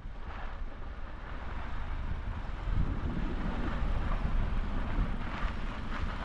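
Steady low rumble with wind noise on the microphone, growing louder about three seconds in.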